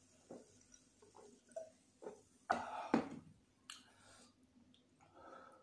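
Close-miked chewing and mouth clicks from someone eating chicken biryani: scattered soft clicks, with a louder run of wet chewing about halfway through.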